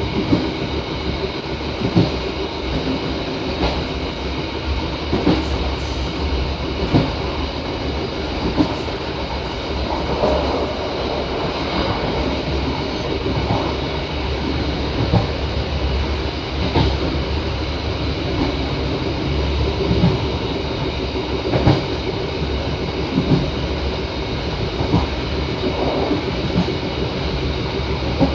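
Train running along the track: a steady low rumble with regular wheel knocks, about one every second and a half.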